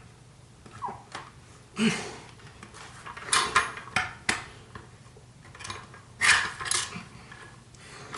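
Kirby Heritage II vacuum parts being handled and fitted together while the machine is converted for its attachments: a string of sharp clicks, knocks and clatter of hard plastic and metal pieces.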